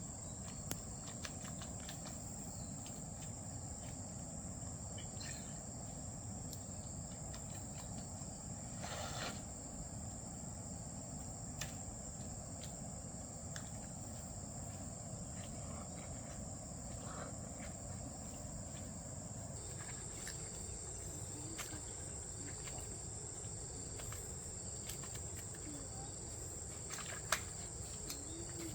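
Outdoor insect chorus: a steady high-pitched chirring that never lets up, over a low background rush, with scattered small clicks and knocks.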